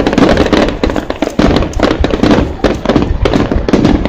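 Aerial fireworks going off in quick succession: a dense, irregular run of bangs and crackles, several each second.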